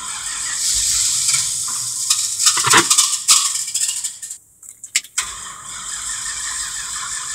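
An old truck's starter cranking the engine over with a rattly whir. It stops about four seconds in and starts cranking again about a second later.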